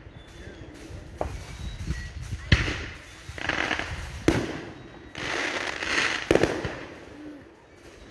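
Fireworks going off: four sharp bangs spread over several seconds, with stretches of crackling between them.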